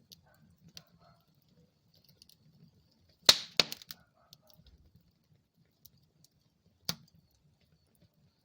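Wood fire crackling in a fireplace: scattered small ticks and snaps, with a sharp loud pop a little over three seconds in, a second right after it, and another about seven seconds in.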